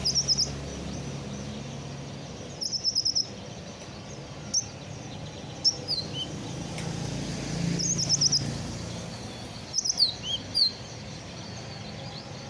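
A sunbird (kolibri ninja), just out of its moult, singing in bursts. Rapid high chirps and short trills come about four times, and single quick notes slide downward in between, over a low steady background hum.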